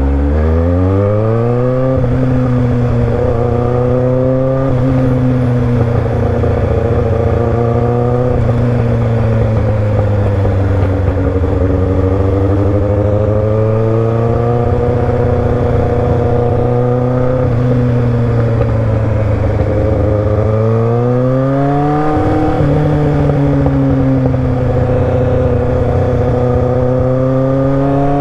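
Motorcycle engine accelerating hard at the start, its pitch climbing steeply, then running with the revs gently rising and falling, with another climb and a gear change a little after twenty seconds and the revs rising again near the end. Heavy wind rush over the microphone underneath.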